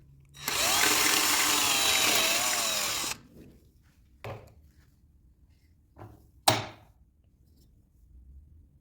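A power tool, likely a drill working wood, runs for about two and a half seconds and then stops suddenly. A few short knocks follow, the last one the sharpest.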